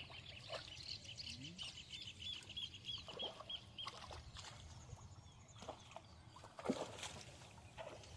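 A bird calling: a run of quick repeated high notes, about four a second, that stops a little under four seconds in. A few soft knocks follow, with one louder knock about six and a half seconds in.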